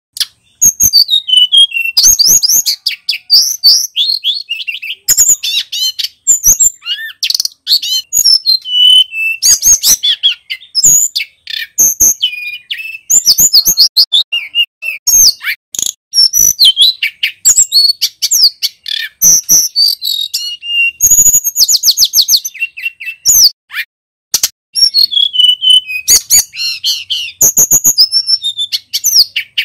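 Male tledekan gunung singing loudly, a rapid, nearly unbroken stream of high chirps, whistled glides and trills mixed with sharp clicking notes.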